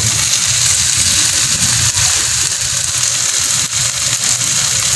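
Ground pork and diced vegetables sizzling steadily in a wok on a gas stove, over a steady low hum.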